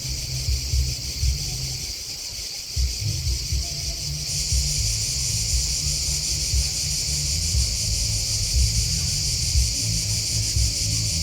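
Chorus of grasshoppers and crickets chirping in a steady, rapid, high-pitched buzz that grows louder about four seconds in, over a low, uneven rumble.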